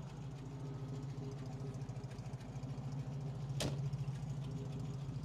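A 1973 MGB roadster's 1.8-litre four-cylinder engine idling steadily, with one sharp click about two-thirds of the way in.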